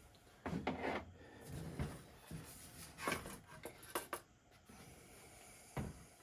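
Handling noise from an air rifle's parts during disassembly: a scattered series of small clicks, knocks and rubs as pieces of the action are worked and set down.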